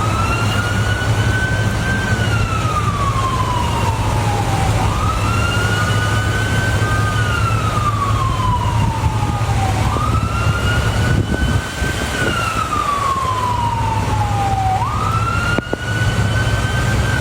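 Emergency vehicle siren wailing in a slow cycle about every five seconds: it sweeps quickly up, holds high, then slides slowly down before jumping up again, over a steady low rumble.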